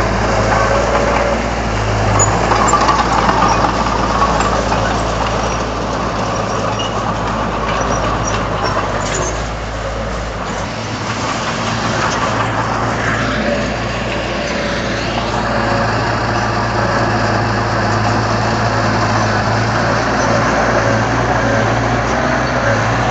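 Komatsu D31 bulldozer's diesel engine running steadily under work, with a brief dip in the low rumble about halfway through.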